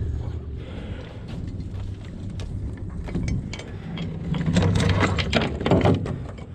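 Heavy mooring chain being hauled aboard, its metal links clanking and rattling as they come in over a steady low hum. The clanking grows busier and louder over the last couple of seconds.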